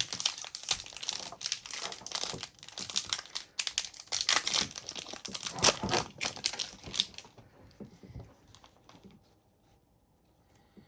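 Wrapper of a 2023-24 Upper Deck hockey card pack crinkling and tearing as it is ripped open, a dense crackling for about seven seconds. It then dies down to faint handling ticks.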